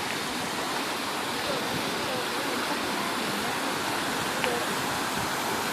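Water of Hossawa Falls rushing steadily, a constant, even hiss of falling and flowing water.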